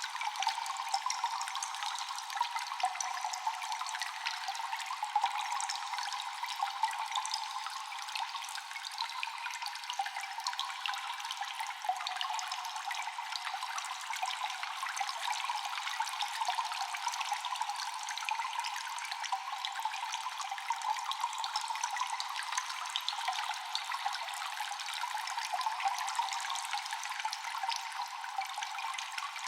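Cave ambience of water dripping constantly with echoing drops, many sharp drips in quick succession over a steady trickling hiss.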